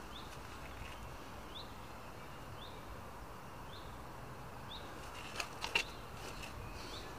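Woodland ambience with a bird repeating a short rising chirp about once a second. A few sharp clicks come close together about five and a half seconds in.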